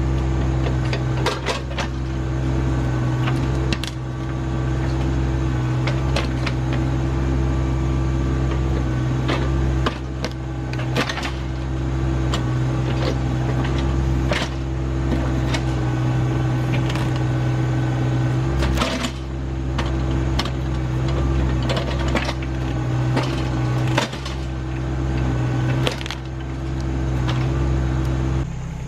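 RK25 subcompact tractor's diesel engine running steadily under work, with repeated sharp knocks and clanks as the backhoe digs at a tree stump and its roots.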